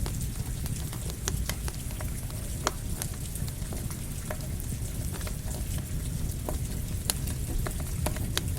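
Campfire crackling with irregular sharp pops over the steady hiss of rain, with a low rumble underneath.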